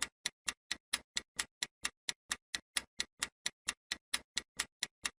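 Clock-tick countdown timer sound effect: short, sharp ticks, about four a second, evenly spaced, marking the time left to answer a quiz question.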